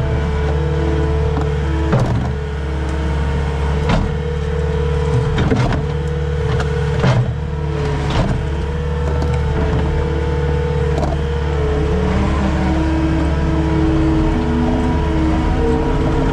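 Skid steer's diesel engine running steadily under work, with several sharp knocks spread through the stretch and the engine pitch shifting near the end.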